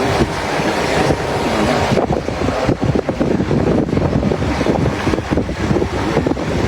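Wind buffeting the microphone over steady vehicle and road noise.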